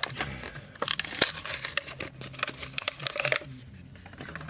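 Plastic blister packaging of a die-cast toy car crinkling and crackling as it is handled, a dense run of sharp crackles that stops about three and a half seconds in.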